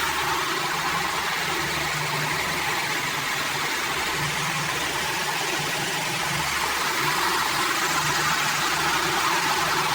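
Small electric motor salvaged from a hair dryer running steadily, spinning the model's propeller with a continuous whirring hum.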